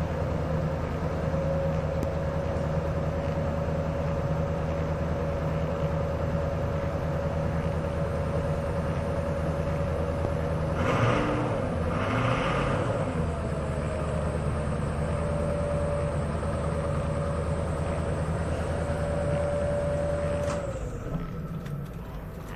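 Ford 6.0L Powerstroke V8 turbodiesel running steadily just after a hard start, with a thin steady whine over the engine. It has two brief louder surges about halfway through, then shuts off near the end, the whine falling away.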